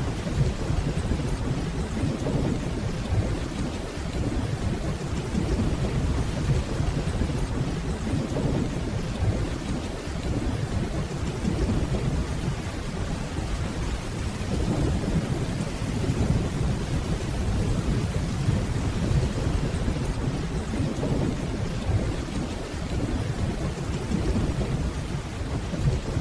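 Steady rainfall with a deep, low rumble of distant rolling thunder underneath, holding level throughout with no sharp cracks.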